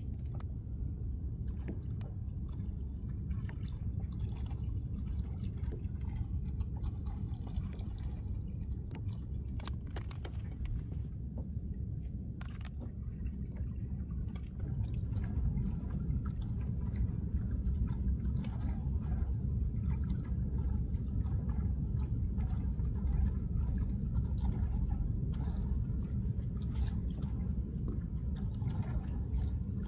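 Small waves lapping and splashing, with crackles throughout, over a steady low rumble of wind on the microphone. It grows a little louder about halfway through.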